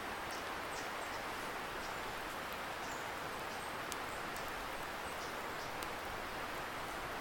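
Wood bonfire crackling with scattered small, sharp pops over a steady hiss from a distant river.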